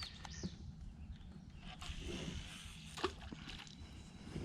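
Quiet creekside ambience with a faint steady hiss, a bird chirping briefly near the start, and a few light knocks, the clearest about three seconds in.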